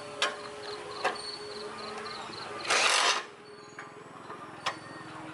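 Mechanical work sounds: a few sharp clicks or taps, and a loud half-second rush of noise about three seconds in.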